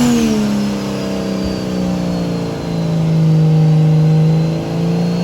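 A 4x4's engine held at high revs, rising and falling once right at the start, then running steadily with small dips in pitch.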